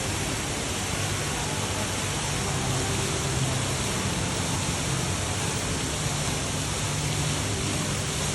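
Indoor waterfall feature pouring steadily: an even rush of falling water, with a faint low hum underneath.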